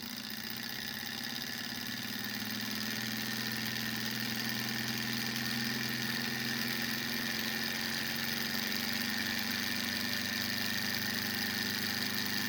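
Desktop Stirling hot-air engine, heated by a small flame, running at speed with a steady mechanical whir. It gets louder over the first few seconds as it picks up speed, then holds steady.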